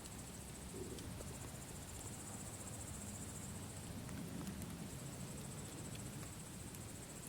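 Campfire burning with occasional small crackles and a low rumble, under a steady, high-pitched chirring of crickets.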